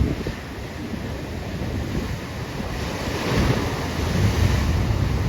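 Sea waves washing in with wind buffeting the microphone; the surf swells louder about three seconds in.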